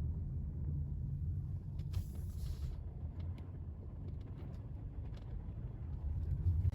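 Car engine and road noise heard from inside the cabin while driving slowly, a steady low rumble, with a brief hiss about two seconds in.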